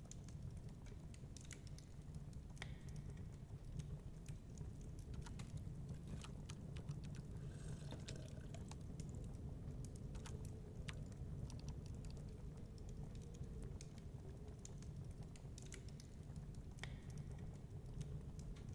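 Wood fire crackling in a fireplace, with irregular sharp pops and snaps over a low steady rumble.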